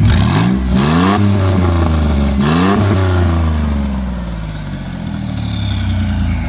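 Twin-turbo V6 Mustang engine blipped twice from idle, its pitch rising sharply and dropping back each time, then settling back to idle. A thin high whistle falls slowly in pitch as the revs die away.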